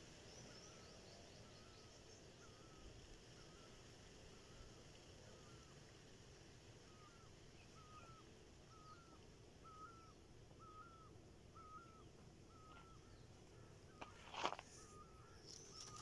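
Faint bird chirping the same short call over and over, a little under two a second, over a low outdoor hiss. A single sharp click near the end.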